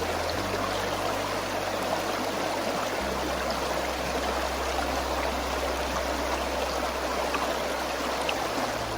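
Water rushing steadily over a rocky stream bed, a continuous even sound. Under it, a soft low music drone shifts pitch a few times.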